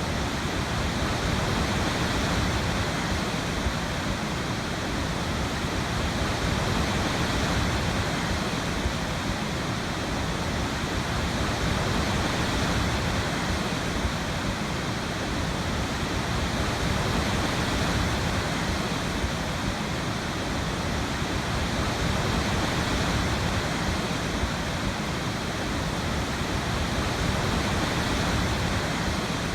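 Waterfall: water falling and splashing in a steady, dense rush with slow, gentle swells in loudness.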